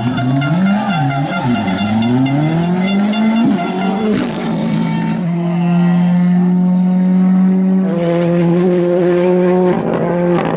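Ford Fiesta R5 rally car's turbocharged 1.6-litre four-cylinder engine revving up and down through gear changes, then holding a steady note for the last five seconds.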